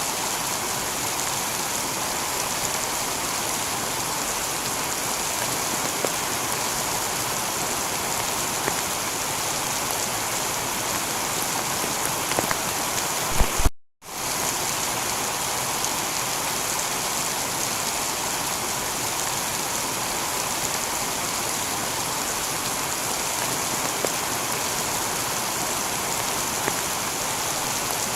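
Heavy rain falling steadily on a tiled roof. A few louder ticks of drops come just before the middle, where the sound cuts out for a split second and then swells back in.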